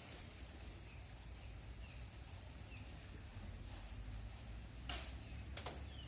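Faint outdoor ambience: small birds giving scattered short, high chirps over a low rumble, with two sharp clicks close together about five seconds in.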